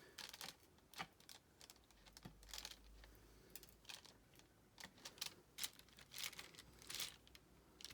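Faint, irregular small clicks and taps of diamond-painting work: a drill pen picking up resin drills and pressing them onto the sticky canvas.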